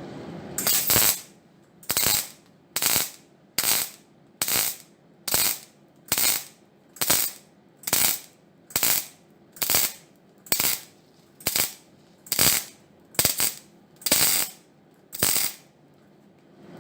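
A metal-cutting tool working on sheet steel in about seventeen harsh strokes, evenly spaced a little under a second apart.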